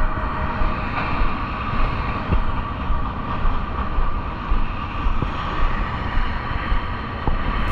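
Steady rumbling noise from riding a bicycle, with wind buffeting the microphone.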